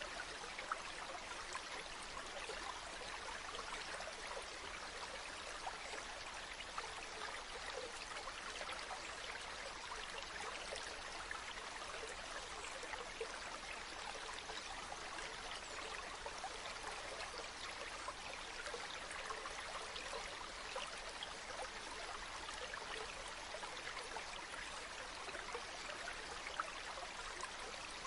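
A river flowing: a steady rush of water with many small splashes and trickles in it.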